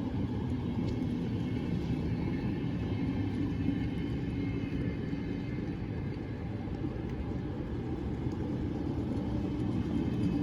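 Train running through the station: a steady low rumble with a faint high whine.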